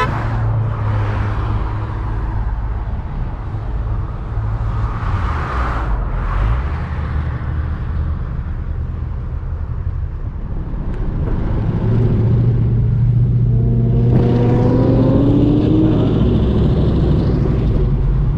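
Car engines running in a slow-moving line of cars, a steady low rumble. About two-thirds of the way in it grows louder, and one engine rises in pitch as it speeds up.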